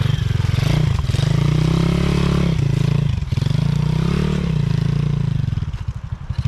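Single-cylinder pit bike engine revving up and down twice, with short drops in between, then falling back to a slower, pulsing idle near the end.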